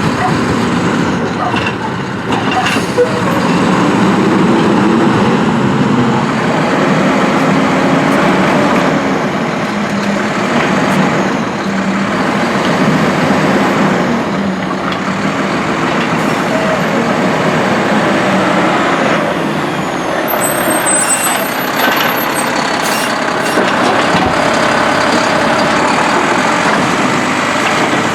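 Mack LR garbage truck with a Heil Durapack Rapid Rail automated side-loader body, its diesel engine running with revs rising and falling, with a few knocks and an air-brake hiss along the way.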